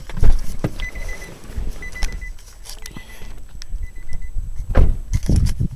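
Electronic beeping: a short, high, steady tone repeating about once a second, four times, among low thumps and knocks from handling. The heaviest thumps come just after the start and again near the end.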